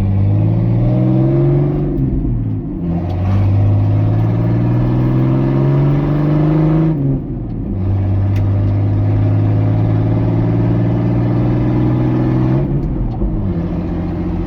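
Jeep engine running with most of its exhaust removed, loud and open. It accelerates with its pitch climbing, drops back sharply about two and a half, seven and twelve and a half seconds in as if shifting gear, and climbs again each time.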